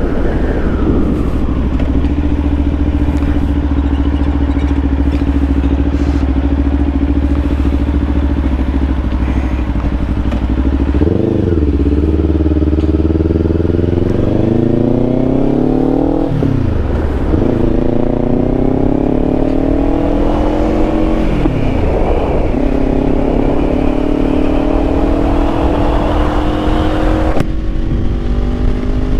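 Kawasaki Ninja 500's parallel-twin engine cruising at a steady pitch, then accelerating through the gears: the pitch climbs and drops sharply at each upshift, three times over.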